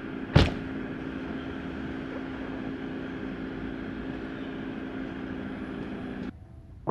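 Car engine idling steadily, heard from inside the cabin, with one sharp knock about half a second in. The hum cuts off suddenly near the end.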